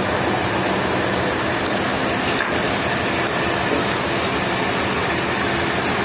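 Sawmill machinery running steadily: a loud, even noise with a low hum underneath.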